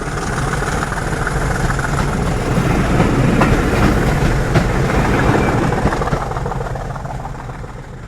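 A train passing with rail clatter, growing louder to a peak midway and then fading away.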